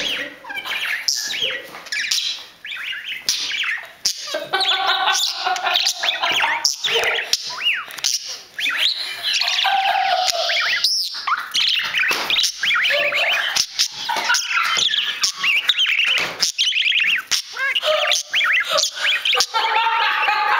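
Male pet parakeet warbling and chattering without pause: a fast, jumbled run of chirps and squeaky notes. This is the courtship warble it gives while treating a person's thumb as its mate.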